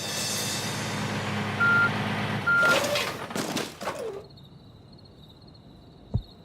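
Cartoon vehicle sound effect: an engine rumble with two short beeps about a second apart, followed by a few falling whooshes. It cuts away about four seconds in, leaving a faint steady tone and a few soft thumps near the end.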